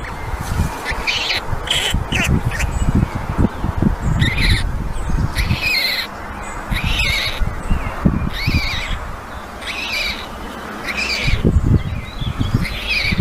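White stork chicks calling from the nest: short high arching calls repeated about once a second, over a steady low rumble of wind on the microphone.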